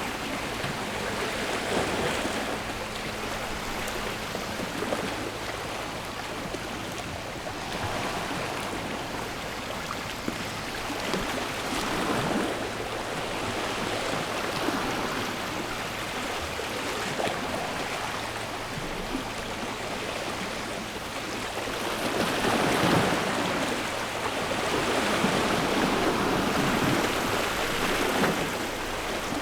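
Sea waves washing in and drawing back, swelling every few seconds, louder in the second half.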